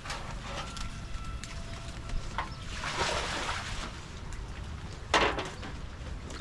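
Wind rumbling on the microphone outdoors, with two brief noisy rustling sounds, the louder and sharper one about five seconds in.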